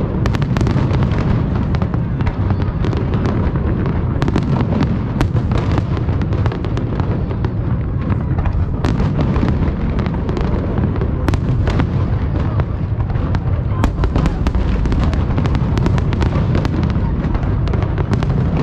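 Fireworks display: a dense, continuous barrage of booming shell bursts with many sharp crackles and pops, under a steady low rumble.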